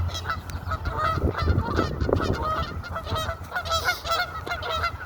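A flock of birds, geese by their honking, calling over one another in a dense, continuous stream of short honks.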